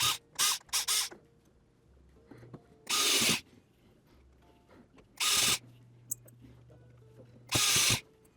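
Electric screwdriver driving small screws into a plastic shell in short runs: a few quick bursts at the start, then three longer runs about two seconds apart.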